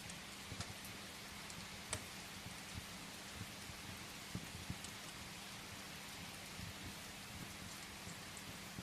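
Steady rain falling, mixed with a wood fire crackling: a handful of sharp pops and crackles over the even hiss of the rain.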